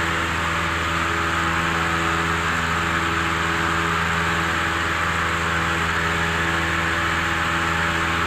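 Cessna 172M's four-cylinder Lycoming engine and propeller droning steadily in cruise flight, with an even rushing hiss of air over it.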